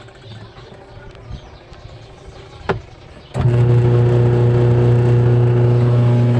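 Twin-tub washing machine's electric motor switched on, after a click, a little over three seconds in and running with a loud steady mains hum. The tub turns slowly or not at all with clothes in it, from a loosened belt.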